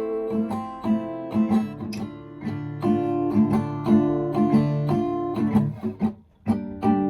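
Acoustic guitar playing an instrumental passage of picked and strummed chords, with a brief pause about six seconds in before the playing resumes.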